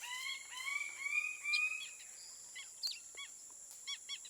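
Forest birds calling: a run of about four loud rising calls in the first two seconds, then short scattered chirps, over a steady high-pitched insect drone.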